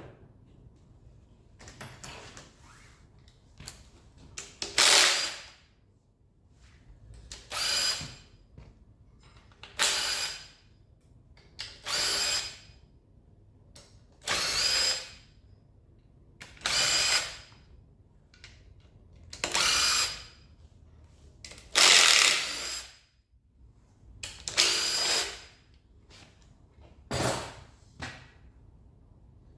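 Cordless power driver run in short bursts, about ten in a row, each lasting around a second, as the rocker cover bolts are undone one after another.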